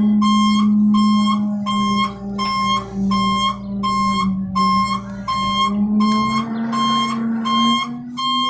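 Garbage truck's reversing alarm beeping steadily, about one and a half beeps a second, over the truck's diesel engine running, its note rising slightly near the end.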